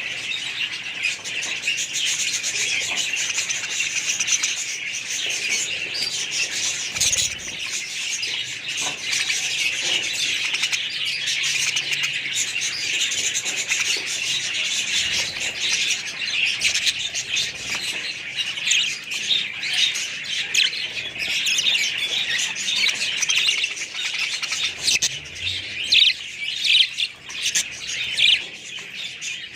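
A flock of budgerigars chirping and chattering all at once, a dense, unbroken twittering with sharper chirps standing out here and there.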